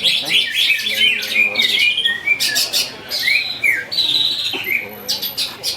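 Several caged cucak ijo (green leafbirds) singing at once: a dense, fast chatter of overlapping notes with short whistled glides up and down.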